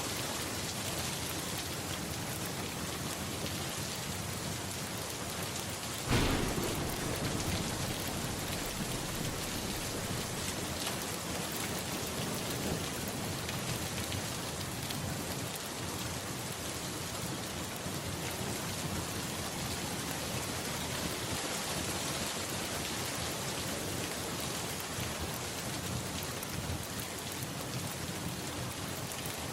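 Steady rain falling, with a single sudden thunderclap about six seconds in whose low rumble dies away over the next couple of seconds.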